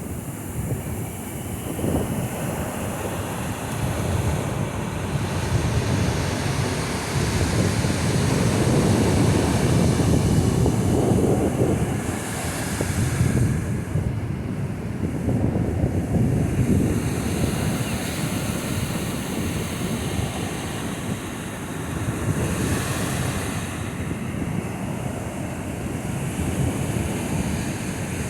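Ocean surf breaking and washing up the beach, swelling and easing, with wind rumbling on the microphone.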